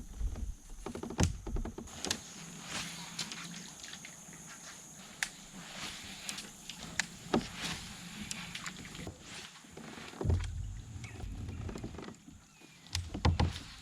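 Scattered clicks and knocks with a few low thumps, from gear being handled and moved about in a fishing kayak.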